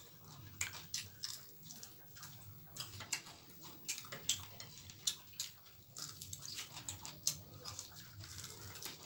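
Chewing and crunching of fried chicken pakoras, heard close: irregular crisp crackles and wet mouth sounds, with sharper clicks now and then as pieces are broken and bitten.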